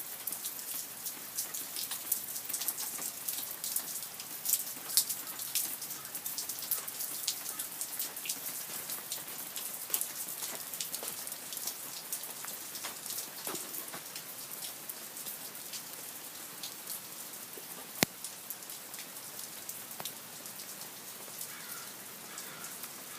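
Steady light rain, many small drops ticking, with one sharper single click about three-quarters of the way through.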